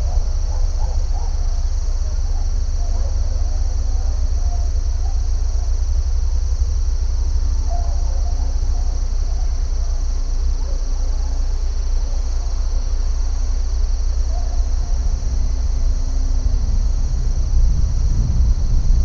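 Outdoor nature ambience: a steady, high-pitched insect chorus over a deep continuous rumble, with faint scattered short calls in the mid range.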